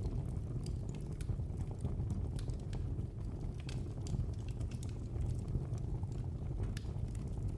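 Wood fire crackling in a fireplace: sharp, irregular pops and snaps over a steady low rumble of the burning fire.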